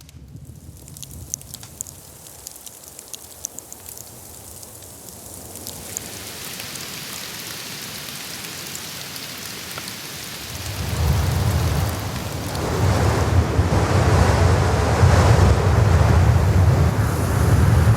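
Blizzard wind rising into strong gusts that buffet the microphone with a low rumble over the second half. A few light scattered ticks come in the first few seconds.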